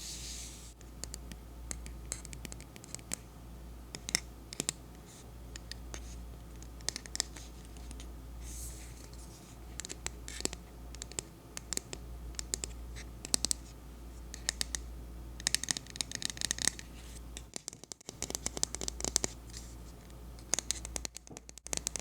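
Scratching and tapping on a Naturium salicylic acid body spray bottle as an ASMR trigger: irregular crisp clicks and scratches, coming in quick rapid flurries twice near the end.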